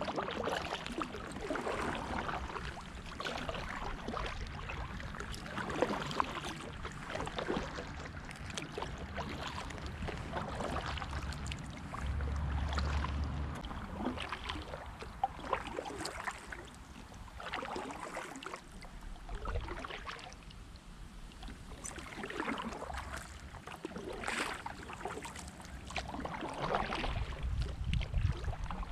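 Kayak paddles dipping and splashing in the water, a stroke about every second or so, with wind rumbling on the microphone now and then.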